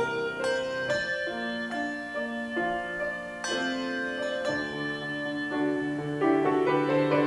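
Handbells played by a trio in a hymn arrangement: struck bell notes and chords that ring on and overlap, a new note every half second to a second.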